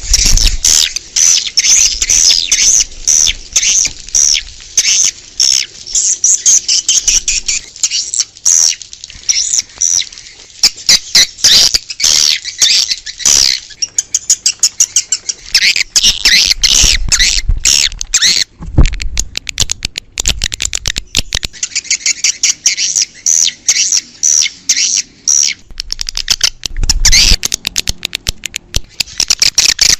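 Swiftlets calling: a dense, loud twittering of rapid, high, overlapping chirps. It is a lure call played outside swiftlet houses to draw the birds in to nest. A few low thuds sound under the chirps.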